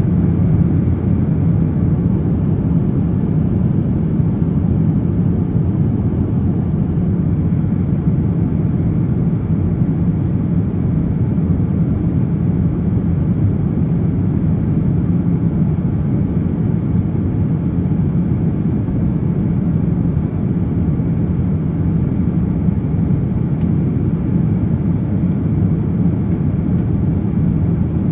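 Steady drone of an airplane in flight, heard inside the passenger cabin: an even, unchanging low rumble of engine and airflow noise.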